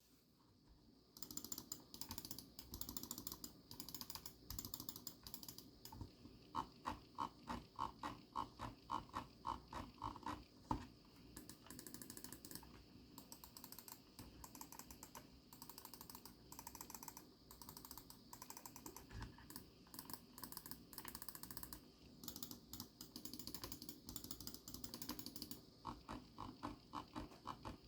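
Logitech G303 Shroud Edition mouse buttons clicking on their Omron D2FC-F-7N (China-made) micro switches. Rapid runs of clicks start about a second in, with a stretch of slower, louder single clicks in the middle.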